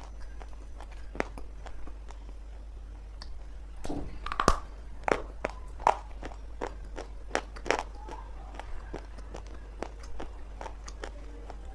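Dry lumps of multani mitti (Fuller's earth clay) being bitten and chewed: scattered sharp crunches, coming thicker and louder in the middle few seconds.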